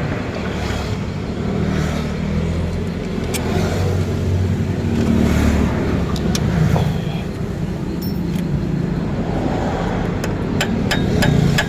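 A car engine running, its pitch rising and falling a little as it revs, with a few sharp clicks near the end.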